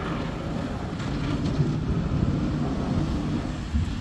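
Snow plow truck's engine running, a low steady rumble.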